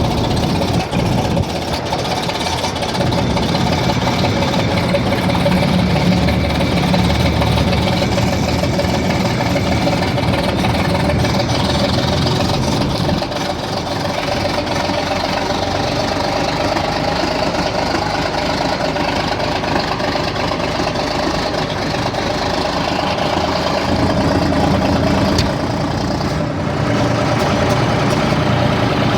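Engine of a 9500 machine idling steadily just after a cold start, still cold and not yet warmed up.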